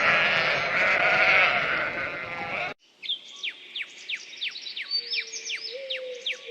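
Many animals bleating at once in a dense, overlapping chorus. It cuts off abruptly about two and a half seconds in and gives way to quieter, quick high chirps, each falling in pitch, with a steady thin tone joining near the end.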